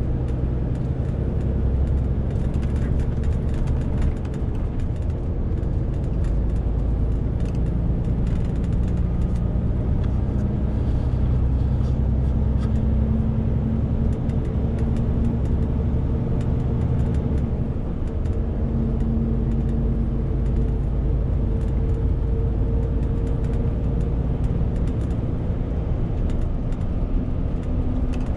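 Renault T520 truck's 13-litre six-cylinder diesel running steadily, pulling a 40-tonne load, with road and tyre noise. Its note shifts upward about halfway through, and the low rumble eases a little near two-thirds of the way.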